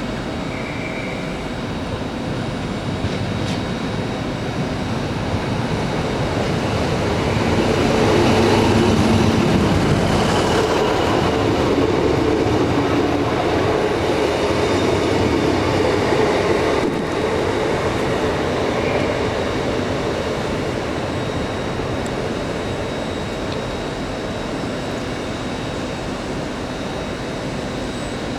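A train passing through the station, its rumble growing to a peak about eight seconds in, holding, then fading away over the last ten seconds or so.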